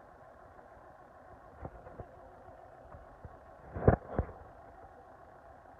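A few scattered clicks, then a louder brief clatter of two hits about four seconds in, from an attempt to start a cold vehicle that does not fire. A steady hum runs underneath.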